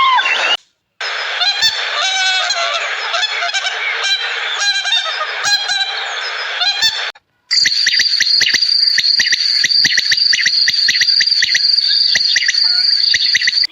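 A flock of geese honking together in a dense chorus, then, after a brief break, a different run of rapid, high clicking chirps.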